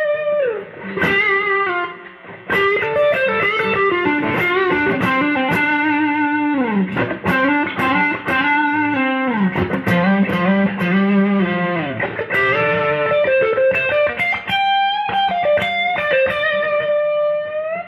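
Electric guitar through McLguitars V2 clone pickups, played on the neck pickup: a melodic single-note lead line with string bends and wide vibrato, ending on a long held note.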